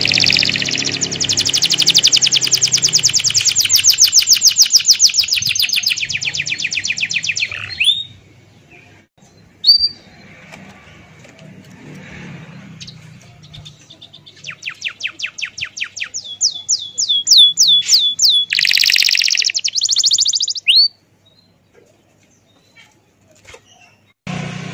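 Bird-like chirping: a long, fast trill of repeated high chirps, then after a pause a second run of repeated down-slurred chirps.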